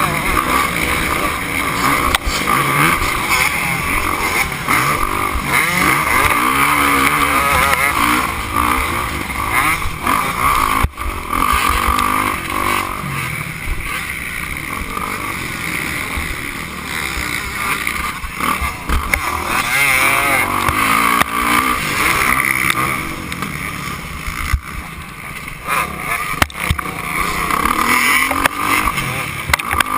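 Motocross bike engine running hard, the revs repeatedly rising and falling as the throttle is worked.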